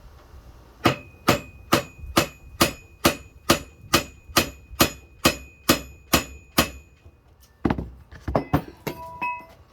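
Hammer striking metal, about fourteen steady ringing blows at roughly two a second. After a short pause come a few more uneven blows near the end.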